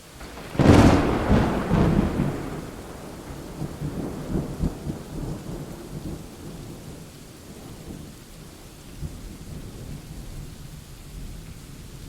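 A thunderclap about a second in: a sharp crack that rolls into a long, low rumble fading away over the following seconds, over steady rain.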